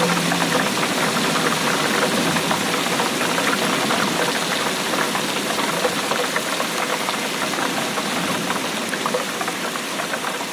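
Steady rainfall: a dense, even patter of many small drops, easing slightly near the end.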